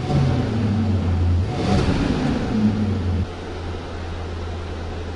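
Mercedes-Maybach GLS 600's twin-turbo V8 running with its pitch shifting, then dropping about three seconds in to a lower, steady idle.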